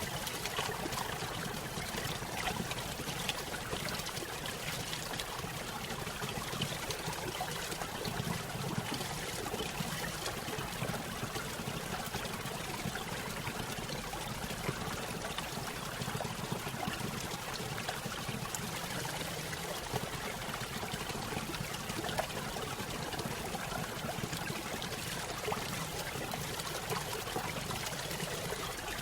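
Small stream running over a little waterfall: water trickling and splashing steadily.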